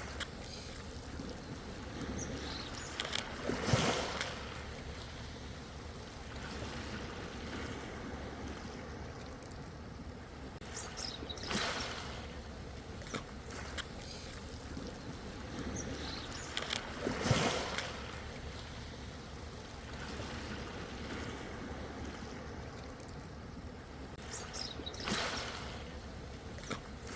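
Ocean waves washing in, four swells about six to seven seconds apart with small splashes, over a steady wash of water.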